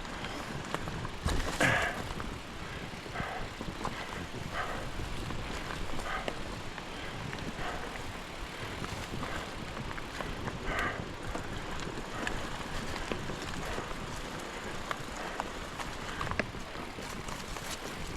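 Mountain bike rolling over a dirt singletrack trail: steady tyre and ground rumble with the bike's rattles and knocks, and a louder clatter about a second and a half in.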